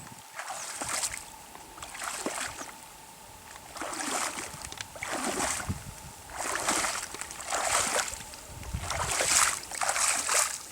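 Water sloshing and splashing in a series of swishing strokes, about one every second or so.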